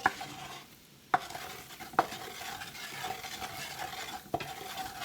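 A flour-and-bacon-grease roux sizzling as it is stirred in a hot pot, the utensil scraping steadily through it and knocking sharply against the pot four times.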